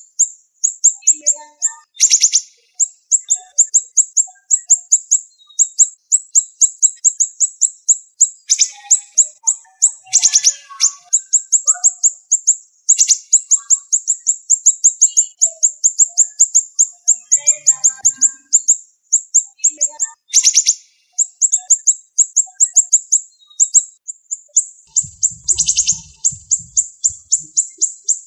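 Siri-siri bird singing a fast, tightly packed string of sharp, high notes, several a second, broken by a few short pauses. A handful of louder, buzzier bursts stand out, about two seconds in, around ten and thirteen seconds, and near the end.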